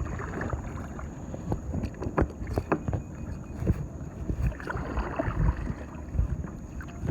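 Water splashing and lapping around a kayak drifting on a river, with scattered short knocks and splashes and wind rumbling on the microphone.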